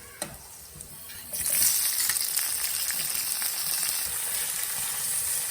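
Food frying in a pan, sizzling; the sizzle turns suddenly louder about a second and a half in and stays steady. A small click comes just after the start.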